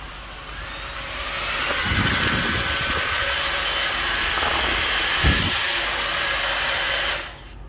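Samsung Jet 70 cordless stick vacuum's motor running with a whooshing rush of air and a high whine. About a second in it speeds up, rising in pitch and getting louder, then holds steady. A low thump comes about five seconds in, and the motor cuts off near the end.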